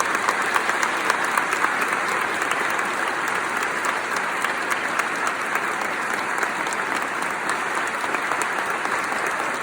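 Audience applauding in a long, steady round of clapping.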